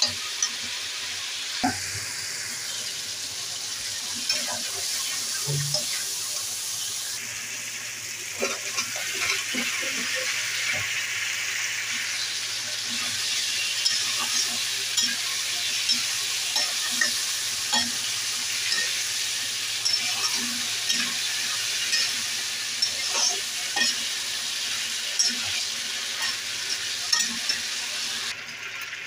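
Spiced masala and sliced taro root (arbi) sizzling in hot oil in a wok, with a spatula stirring and scraping against the pan in frequent short scrapes and clicks. The sizzle changes in tone a few times.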